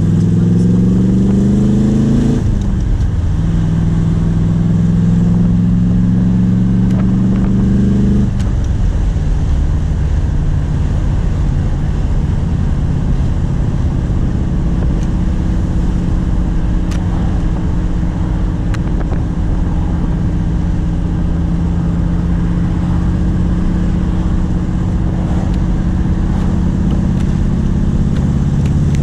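1979 Corvette L82 small-block V8 running through side pipes while driving, pulling up through the gears of its four-speed: the revs climb, drop at a shift about two seconds in, and climb again. Around eight seconds in the engine eases off and settles into a steady cruise.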